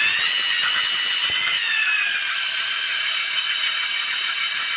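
Electric drill running at speed, drilling holes in a fridge door basket: a steady high-pitched motor whine that sags slightly in pitch about two seconds in.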